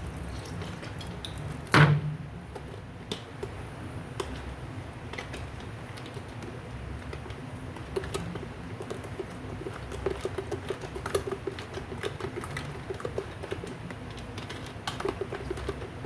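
Kitchen handling sounds: scattered small clicks and taps of utensils and containers, with one sharp knock about two seconds in and busier runs of tapping near the middle and end.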